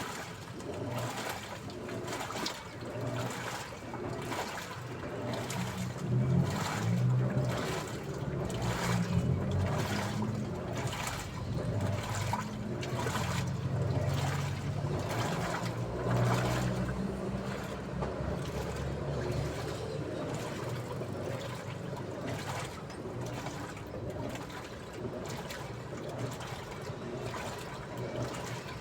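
Daewoo washing machine washing: water sloshing in the drum in a regular rhythm over a low motor hum.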